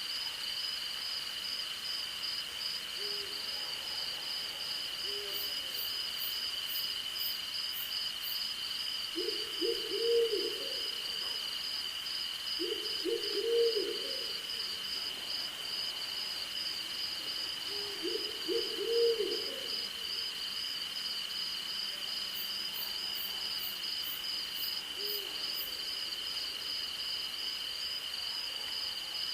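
An owl hooting: three short runs of low notes a few seconds apart, with a few fainter single hoots before and after, over a steady chorus of crickets and other night insects, one of them pulsing fast. Twice a short run of very high ticking insect calls joins in.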